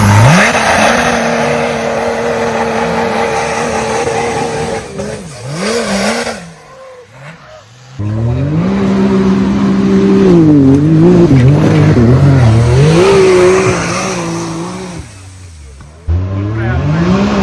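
Off-road vehicle engine revving hard under load, its pitch rising and falling repeatedly. The sound breaks off suddenly twice and picks up again at high revs.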